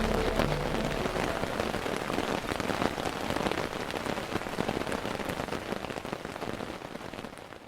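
Steady rain, a dense spread of drops hitting a surface, slowly fading and dying away at the end.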